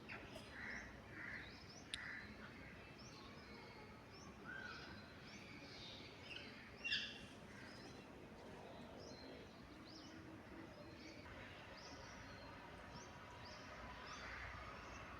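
Birds chirping faintly against quiet outdoor background noise: many short, high calls scattered throughout, with one louder call about seven seconds in and a sharp click about two seconds in.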